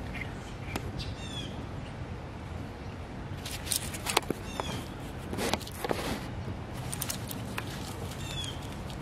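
A bird calling in the background, a short chirping call repeated three times a few seconds apart. A few sharp clicks and knocks come in the middle, over a steady low hum.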